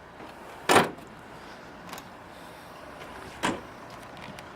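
Two clunks, a loud one just under a second in and a softer one about three and a half seconds in, over a steady background hiss.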